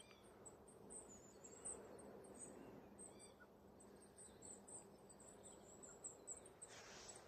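Faint, very high, thin calls of goldcrests repeating over a near-silent background.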